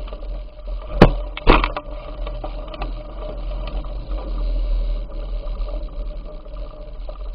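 Riding noise of a bicycle picked up by its own camera: a steady low rumble of wind on the microphone with small rattles. Two sharp knocks, about a second in and half a second later, are the loudest sounds.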